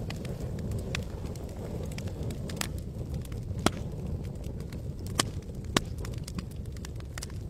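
Campfire burning with a steady low rumble and wood crackling in sharp, irregular pops, a few of them louder than the rest.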